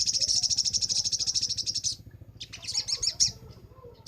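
Crimson sunbird (sogok ontong) singing: a fast, high trill of rapidly repeated notes that stops about two seconds in, followed shortly by a shorter burst of chirps.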